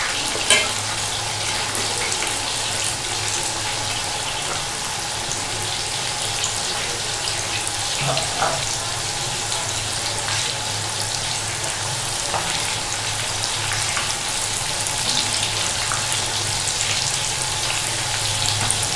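Stuffed bitter gourds (karela) deep-frying in hot oil in an aluminium karahi: a steady sizzle, with a few light clicks of a wire skimmer against the pan as they are turned.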